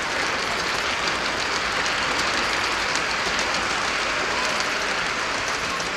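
Gauge 1 (1:32 scale) model train running on the layout: a steady rolling noise of metal wheels on the rails with faint scattered clicks.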